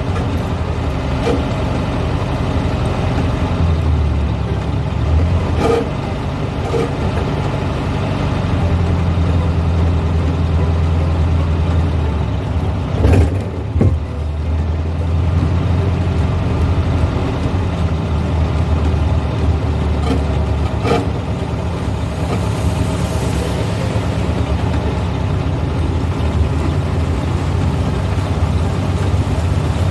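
A 1970s Volkswagen's engine running while driving, heard from inside the car. Its low drone shifts in pitch several times as the speed changes, and there is a short loud knock about halfway through.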